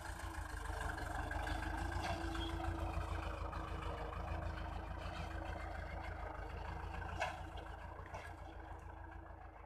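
Belarus MTZ-50 tractor's four-cylinder diesel engine running steadily under load while pulling a ridger through a sugarcane field, with one sharp clank about seven seconds in, growing fainter toward the end.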